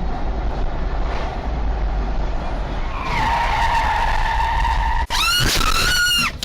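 Car tyres skidding with a long high squeal over loud road rumble. After a sudden break about five seconds in, a second, louder squeal follows; its pitch rises and falls, and it stops sharply near the end.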